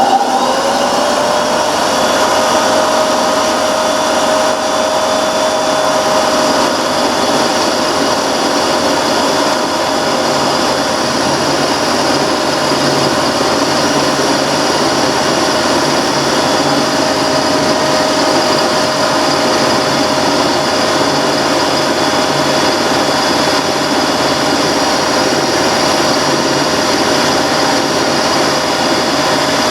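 Benchtop mini mill switched on, its motor coming up to speed in the first second and then running steadily with a constant whine, while it takes a light cut across the top of a band iron bar to square it flat.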